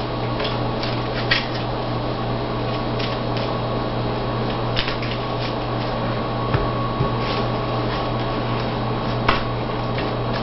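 Steady electrical or fan-like background hum, with scattered light clicks and taps of trading cards being handled and laid down on a table.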